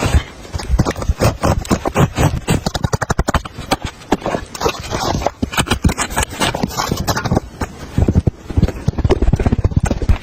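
Rapid, irregular knocking and scraping, several sharp hits a second, with a short lull a little after halfway.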